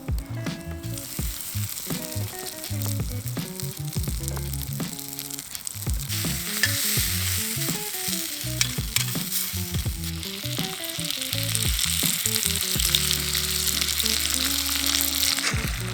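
Food sizzling as it fries in a hot pan over a fire, the sizzle growing louder about six seconds in.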